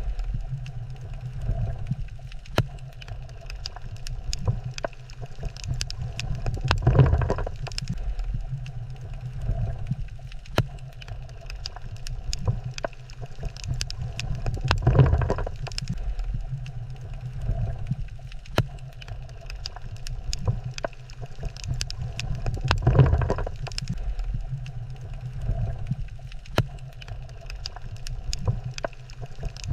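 Underwater coral-reef ambience: a low steady rumble full of scattered sharp clicks, with a louder rushing surge about every eight seconds.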